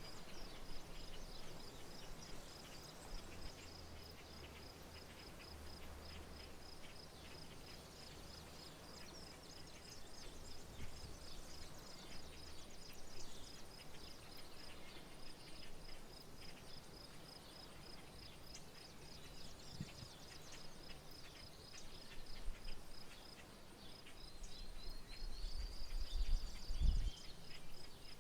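Rural outdoor ambience: an insect gives a steady, rapid, high-pitched pulsing trill without a break, and birds chirp here and there over it. A low rumble rises near the end.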